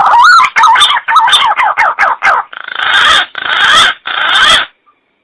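Recorded green pigeon (punai) lure call: a quick run of wavering whistled notes, then three harsher rasping notes, stopping abruptly near the end.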